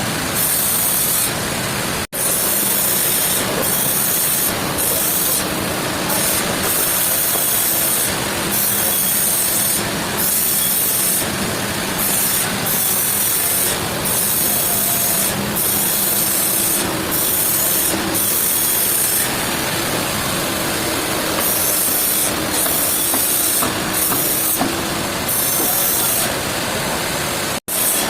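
Sawmill machinery running steadily through a log, a dense noise with a hiss that cuts in and out, broken twice by abrupt edit cuts.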